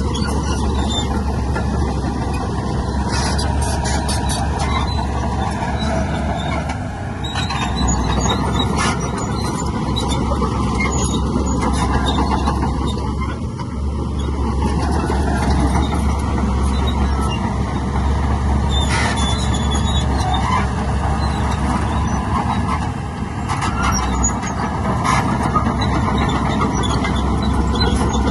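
Heavy diesel earthmoving machinery running hard, its low engine note swelling and easing, with intermittent metallic squeals and clanks.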